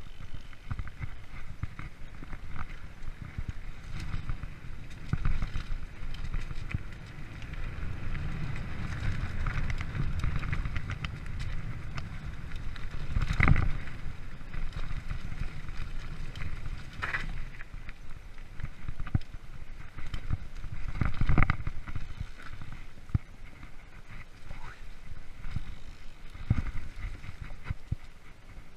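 Freeride mountain bike rolling along a forest trail: steady tyre rumble with the bike's rattle and clatter over bumps, and two heavier knocks, one about halfway through and one about three quarters of the way in.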